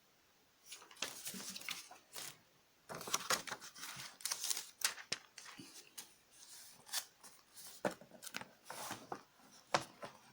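Paper and cardboard being handled as a boxed study Bible is unpacked and opened: irregular rustling, scraping and crinkling with small sharp clicks, starting about a second in.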